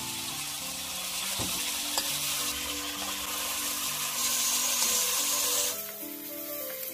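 Food frying in hot oil in a pan, a steady sizzle that cuts off near the end.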